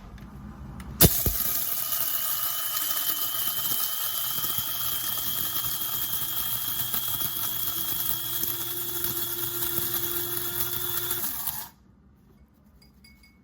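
Kaffe electric blade coffee grinder running, grinding whole coffee beans for French press: a sharp click as it starts about a second in, then a steady loud motor whine for about ten seconds that cuts off suddenly.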